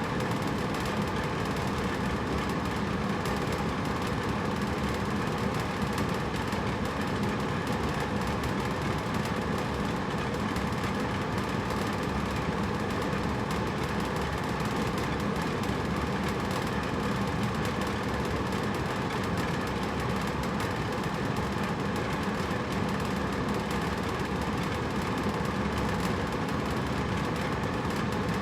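Hotel room air conditioner running steadily: an even whooshing of air with a low hum.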